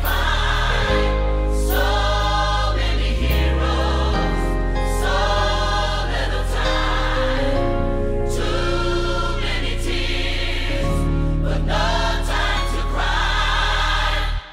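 Gospel song: a choir singing held phrases over a band with a heavy bass line. The music stops abruptly near the end.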